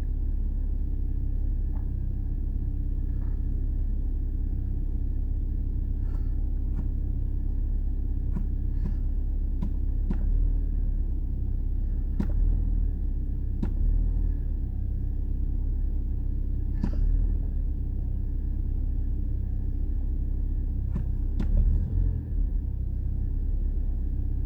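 1997 Mazda 323 180SE's 1.8-litre naturally aspirated twin-cam inline-four idling steadily after a cold start, with a low even rumble, a faint steady whine above it, and a few small ticks scattered through.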